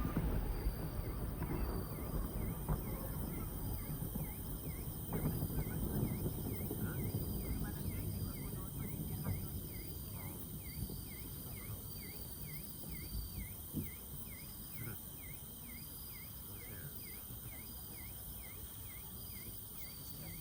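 Outdoor summer-night ambience just after a fireworks burst: the low rumble of the explosions dies away over the first few seconds. Insects call steadily throughout, one with a short chirp repeated about twice a second and another with a higher broken trill.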